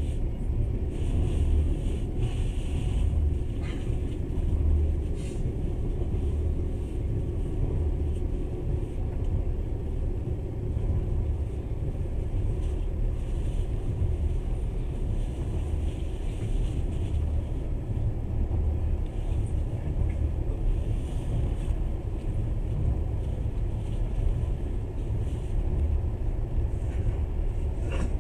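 Passenger train running on the rails, heard from inside the carriage: a steady low rumble of wheels and track, with a few faint ticks.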